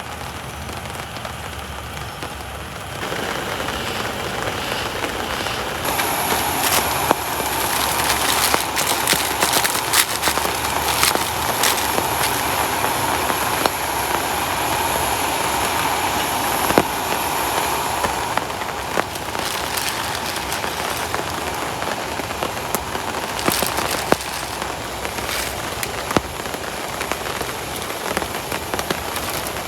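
Heavy rain falling, with many sharp drops striking close by. It grows heavier about three seconds in and again about six seconds in, then eases slightly later on.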